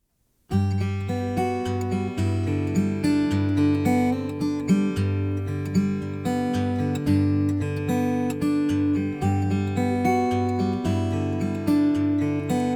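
Acoustic guitar playing a folk song's instrumental introduction, quick plucked notes over a low bass line, starting about half a second in.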